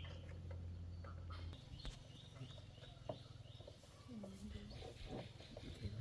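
Faint bird chirps, a quick run of short high notes, with scattered light clicks. A low steady hum stops about a second and a half in.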